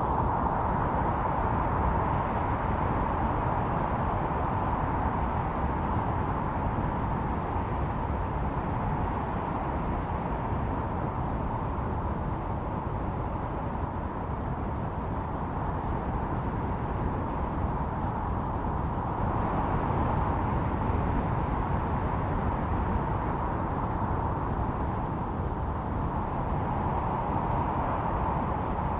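Snowstorm wind blowing steadily over a low rumble, with a howling whistle on one pitch that swells and eases every several seconds.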